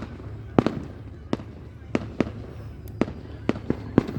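Fireworks going off in a rapid, irregular series of sharp bangs, about a dozen in four seconds.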